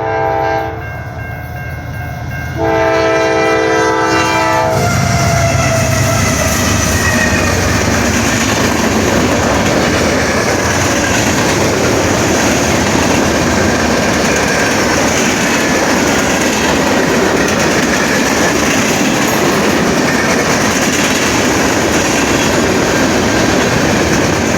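Train horn blowing at a road crossing, a short blast and then a long one, followed by the train passing close by with a steady rumble and clatter of wheels on the rails.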